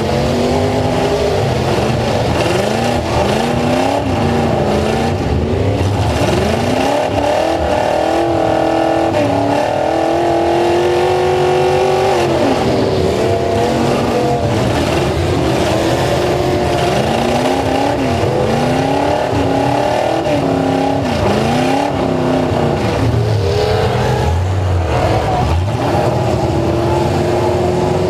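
Several full-size truck engines revving hard and continuously, their pitches rising and falling over one another.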